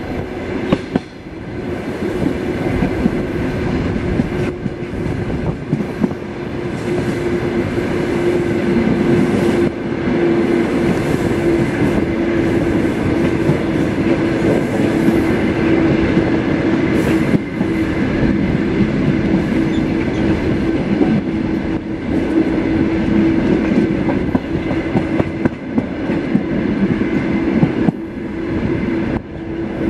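Suburban passenger train car running along the track: a steady rumble of wheels on rail under a constant drone, with a few sharper clicks along the way.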